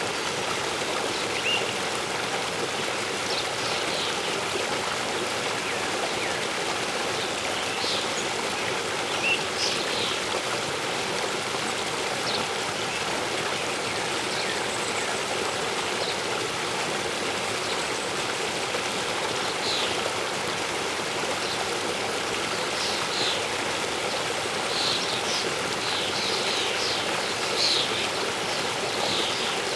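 Waterfall and stream water running steadily, with short high bird chirps scattered through it, coming more often near the end.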